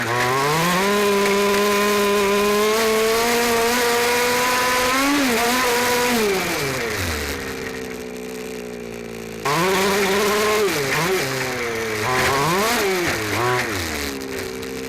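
A 29cc two-stroke engine on a 1/5-scale RC stadium truck, heard onboard. It revs up about a second in and holds high revs for several seconds, then drops back to near idle. Later it rises and falls in a series of short throttle blips, over a steady hiss of tyres on gravel and wind.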